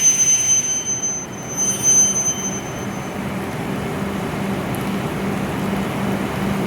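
W7 series Shinkansen train coming to a stop: a high-pitched whine fades out in the first few seconds, leaving a steady low hum from the train standing at the platform.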